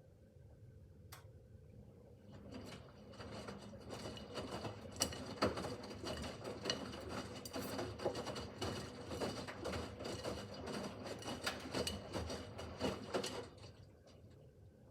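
Miele W5801 washing machine's drum turning during the wash, laundry and water tumbling inside with irregular clicks and knocks for about eleven seconds, then the drum stops for its pause.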